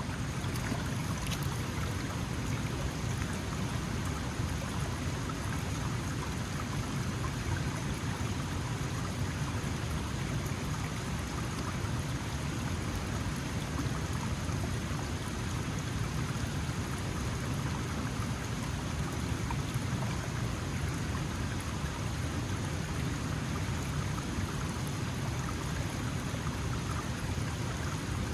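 Small mountain stream flowing steadily over stones, a continuous rushing and splashing of water.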